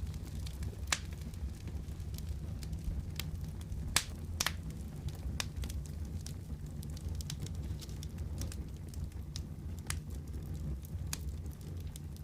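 Wood fire burning in a fireplace: a steady low rumble with scattered sharp crackles and pops, two louder pops about one and four seconds in.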